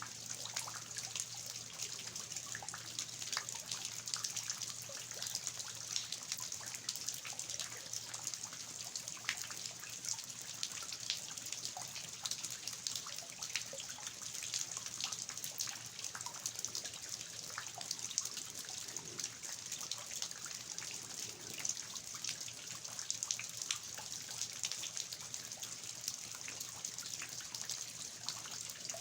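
Steady rain with water dripping and trickling from the eaves, dense fine drop patter over an even hiss.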